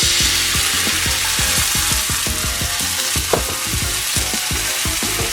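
Chicken and minced garlic frying in butter and sun-dried tomato oil in a pan, a loud steady sizzle. Light background music plays underneath.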